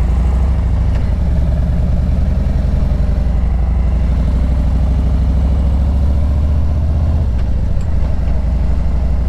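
Car engine running with road rumble, heard from inside the moving car. The low rumble eases about seven seconds in.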